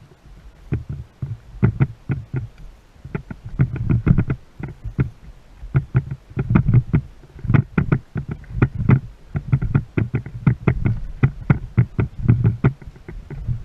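Choppy water slapping and knocking irregularly against a small boat's hull, over a low rumble of sloshing.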